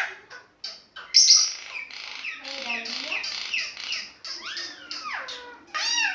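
Asian pied starling singing: a rapid, varied run of harsh chattering notes and whistles that swoop up and down, with a loud harsh burst about a second in.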